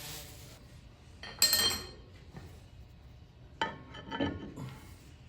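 Metal tools and parts clinking as they are handled at the workbench: one sharp, ringing metal clink about a second and a half in, then a short cluster of lighter clinks and knocks near the four-second mark. A faint hiss at the start stops after about half a second.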